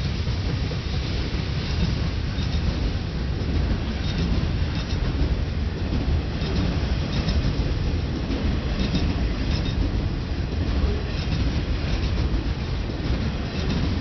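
Freight train rolling past: a steady low rumble with faint clicks of wheels over the rails.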